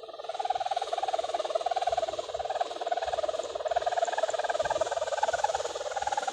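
A kite's hummer drones in a strong wind, with a fast throbbing pulse and a light hiss over it, its level swelling and easing slightly.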